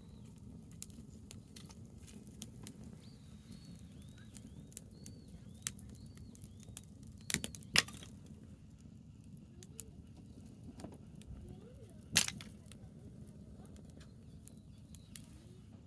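Burning branches in a wood fire crackling, with scattered sharp pops, the loudest a pair about seven and a half seconds in and one about twelve seconds in, over a low steady rumble. A short run of high chirps comes about three to five seconds in.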